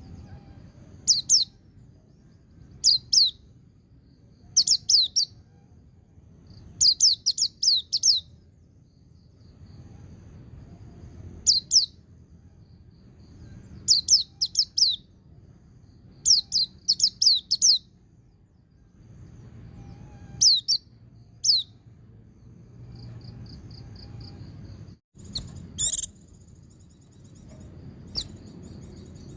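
White-eye (pleci) calling in the 'ngalas' style: sharp, high, down-slurred chirps in quick groups of one to five, separated by short pauses. A brief break in the sound about 25 s in is followed by a denser burst of chirps.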